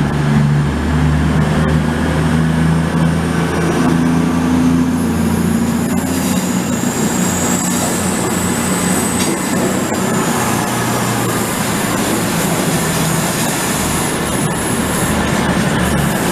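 A train moving on the rails, with a low engine drone that fades after a dozen seconds or so. A high wheel squeal rises and falls about halfway through.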